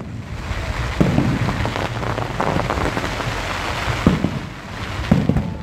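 New Year fireworks display: a boom about a second in, then a dense crackling for a few seconds, with two more booms near the end.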